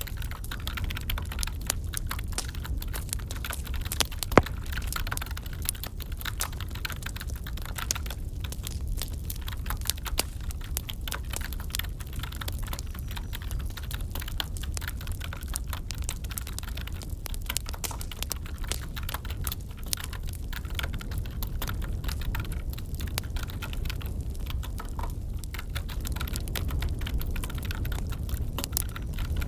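Wood fire crackling with a low steady rumble and many small pops, with one sharp, loud pop about four seconds in, over computer keyboard typing.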